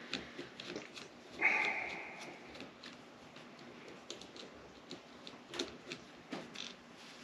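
Small metal engine parts and hand tools clicking and clinking as they are handled during engine teardown. About a second and a half in, one metal piece strikes something and rings briefly.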